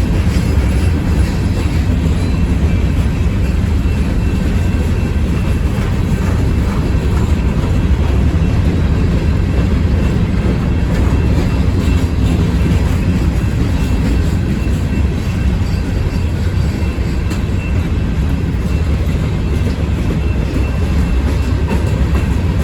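CSX freight train's cars rolling past with a steady, loud, low rumble and scattered wheel clicks on the rails.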